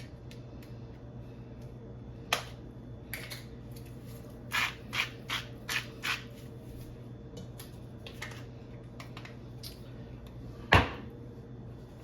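Kitchen handling sounds over a steady low hum: a single sharp tap, then a quick run of five taps about halfway through, and one louder knock near the end, as seasoning is added to the pot.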